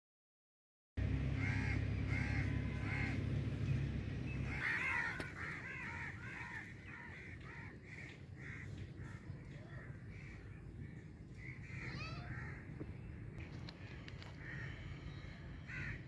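Birds calling repeatedly over a low rumble that drops away about four and a half seconds in. The sound cuts in abruptly about a second in, after dead silence.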